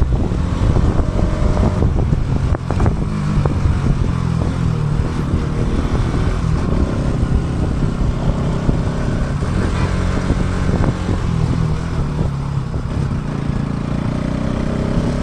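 Motorcycle engine running at a fairly steady pitch while riding, with a heavy low rumble, picked up by an action camera's built-in microphone.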